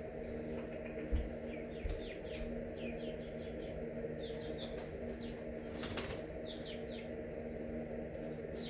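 Small birds chirping over and over in short falling notes, over a steady low hum, with two soft thumps about a second in.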